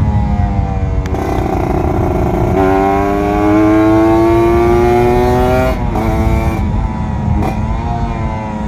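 Kawasaki Ninja RR 150's two-stroke single-cylinder engine under way: revs drop in the first second, then after a gear change climb steadily for about three seconds, break off briefly around the six-second mark as the throttle is eased or a gear is shifted, and settle again. Wind noise sits underneath.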